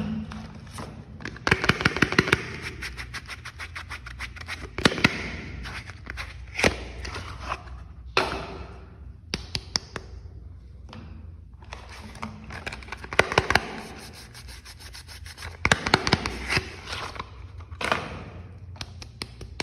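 Soap packaging being handled and unwrapped by hand: rustling, scraping and crinkling, with clusters of sharp clicks and taps, in several bursts with short lulls between.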